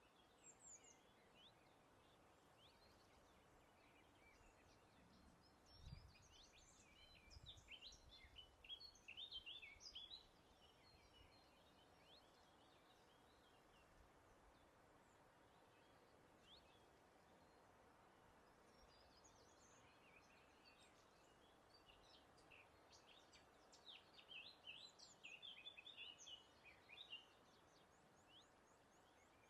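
Faint birdsong: quick high chirps and trills in two bouts, about six seconds in and again about twenty seconds in, over a soft steady hiss. A brief low rumble comes about six seconds in.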